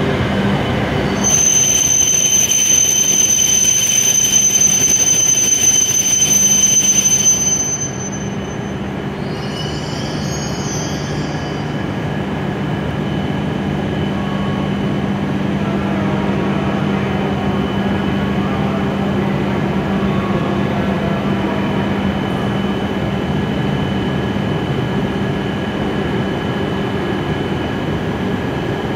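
W7 series Shinkansen train braking to a halt at the platform: a loud, steady, high-pitched squeal for about six seconds that stops as the train comes to rest. Then the standing train's steady hum.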